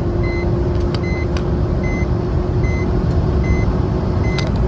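Cabin noise of a Maruti Suzuki Swift at about 160 km/h: a steady rush of road, wind and engine noise with a constant hum under it. A short, high electronic beep repeats evenly, a little more than once a second. This is the car's overspeed warning chime, which Indian cars sound continuously above 120 km/h.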